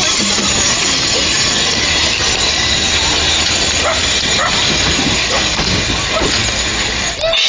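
Steam hissing loudly and steadily from a Quarry Hunslet narrow-gauge steam locomotive.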